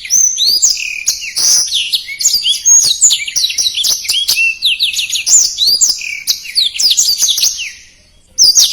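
Black-throated canary (blackthroat) singing a fast, tightly packed song of rapid high chirps and slurred whistled notes. The song breaks off briefly near the end, then starts again.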